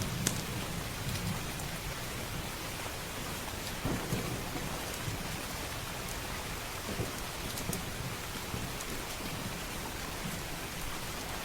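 Steady heavy rain with a low rumble of distant thunder, strongest at the start and easing off, and a few sharp clicks scattered through.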